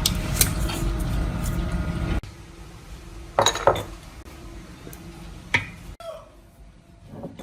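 Metal engine parts clinking as they are handled, three sharp clinks in the second half, after a louder stretch of noise with scattered clicks that cuts off about two seconds in.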